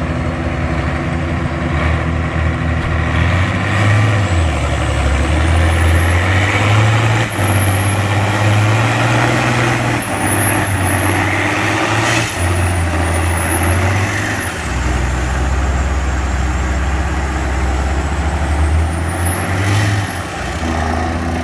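Heavy diesel vehicle engine running under load, its drone stepping up and down in pitch, with a thin high whistle that rises and falls several times.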